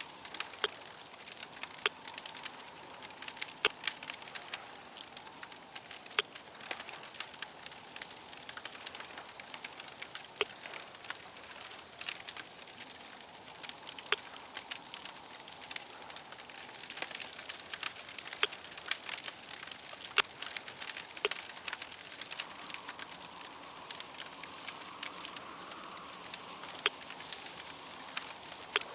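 Crackling fire: a steady hiss with many sharp, irregular pops and clicks.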